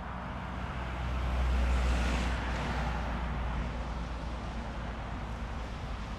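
A car passing by, its road noise swelling to a peak about two seconds in and then slowly fading, over a low rumble of wind on the microphone.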